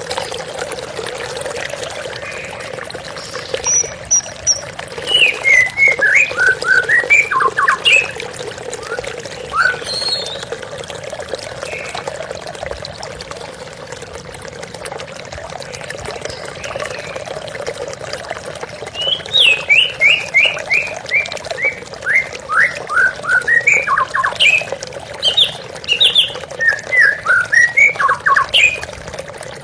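White-rumped shama (murai batu) singing rapid runs of short notes that fall in pitch, in one bout about five seconds in and a longer one from about twenty seconds, over the steady sound of flowing water.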